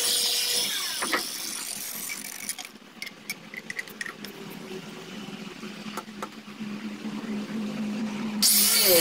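Power grinder winding down over the first couple of seconds, then a quieter stretch of light clicks and knocks with a steady low hum. The grinder starts up again suddenly near the end.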